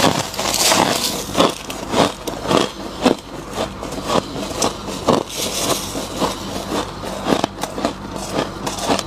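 Thick humidifier frost being dug out by hand and crunched while eaten: a run of irregular, crisp crunches and scrapes, several a second.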